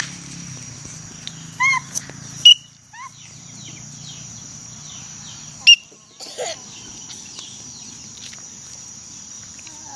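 A few short, sharp bird calls over a steady high-pitched insect drone; the loudest calls come about two and a half and almost six seconds in.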